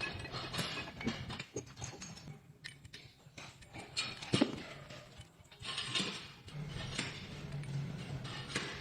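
Irregular metallic clinks and knocks, like hand tools on metal machine parts, with one sharper knock about four and a half seconds in, over a faint low steady hum.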